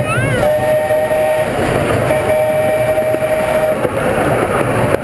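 Miniature zoo train's whistle blowing two long steady blasts, over the train's running rumble.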